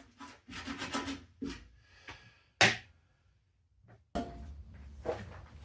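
Irregular rubbing and scraping strokes, then a single sharp knock, followed by a steady low hum.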